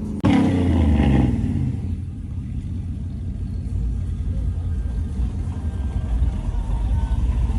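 A vehicle engine and exhaust rumbling. A loud rev falls away about a second in, then the engine settles into a steady, uneven low rumble.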